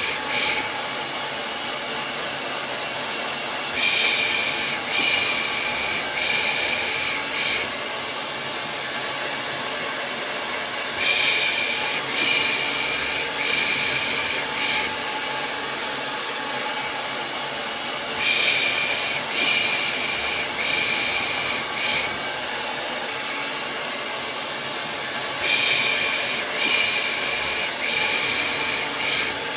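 Hair dryer running steadily as white noise, overlaid with a person shushing a baby ("pış pış"): four hissing shushes about a second apart, the group repeating every seven seconds or so.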